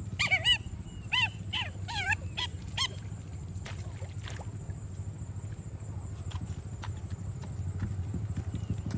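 A quick run of about eight short, high-pitched animal calls in the first three seconds, followed by a low steady rumble that grows louder toward the end.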